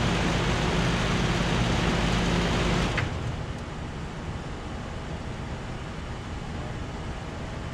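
A 1984 BDP Model 541D 5-ton heat pump outdoor unit running in heat mode, its compressor humming under the fan's steady rush. About three seconds in it shuts off with a click, and the hum stops abruptly, leaving a fainter background hiss.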